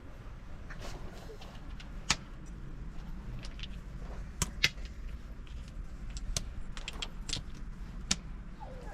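Irregular sharp clicks and light knocks over a steady low rumble; the sharpest come about two, four and a half, and eight seconds in.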